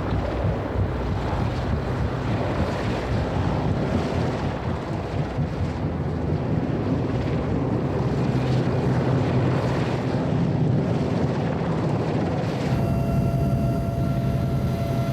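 Rescue helicopter in flight: steady engine and rotor noise with a low hum. A few steady higher tones join about three-quarters of the way through.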